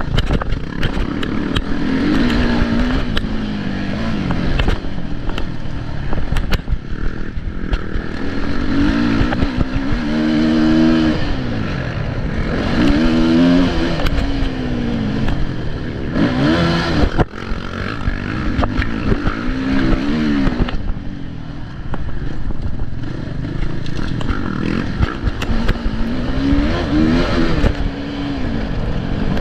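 Motocross motorcycle engines revving hard, the pitch climbing and dropping again and again as the bikes accelerate, shift and back off around the track.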